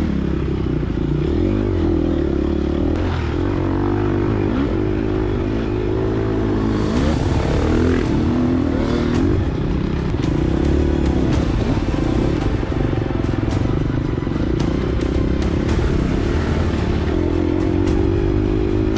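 Gas Gas EX250F four-stroke single-cylinder dirt bike engine under riding load, its pitch rising and falling continually as the throttle is worked, with scattered knocks and clatter.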